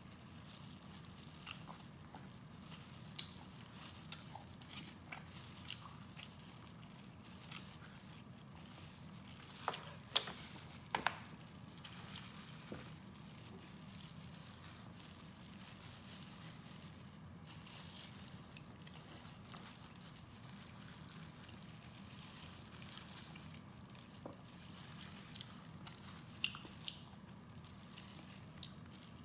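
Close-miked eating sounds of braised pork trotter being gnawed and chewed: wet chewing and sucking with scattered small clicks of lips and tongue, a few louder ones about ten and eleven seconds in. A faint steady low hum runs underneath.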